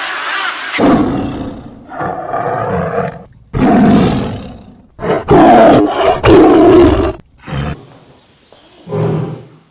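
A big cat roaring and growling in a string of loud calls, each about half a second to a second long with short breaks between them. Near the end a different recording follows with a further call.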